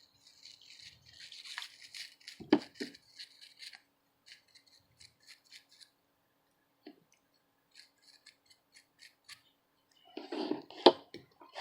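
Toothbrush scrubbing a circuit board wet with isopropyl alcohol to wash off soldering flux: quick brushing strokes that thin out to scattered short ones. Two sharp knocks, about two and a half seconds in and near the end, are the loudest sounds.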